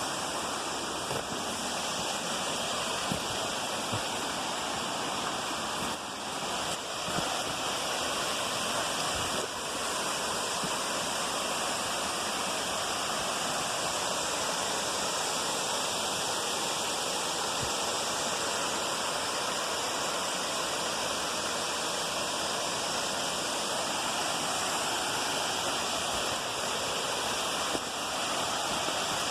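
Waterfall rushing steadily, an even hiss of falling water with a few faint clicks and knocks.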